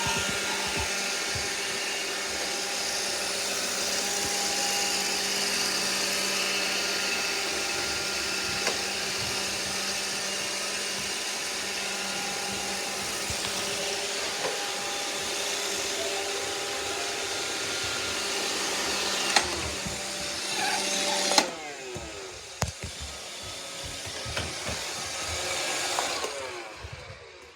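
iRobot Roomba robot vacuums running: a steady whir of brush and suction motors with a few sharp knocks. About three-quarters of the way through, much of the sound cuts off suddenly. A quieter whir with clicks and bumps is left, and it fades out near the end.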